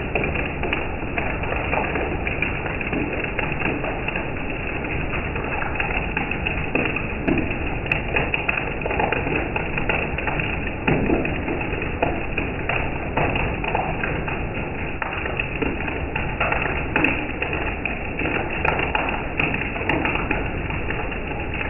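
Steady rain, with a dense hiss dotted by many small drops tapping and occasional heavier thuds.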